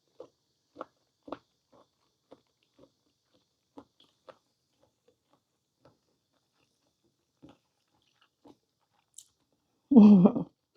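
Close-up chewing of parboiled squid: soft wet mouth clicks and smacks, several in the first couple of seconds, then fewer and fainter. Near the end comes a short, loud voiced hum.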